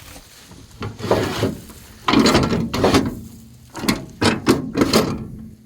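A steel door on the back of a dump truck's body being worked by hand: a run of rough scrapes and rubs, with a few sharper knocks in the second half.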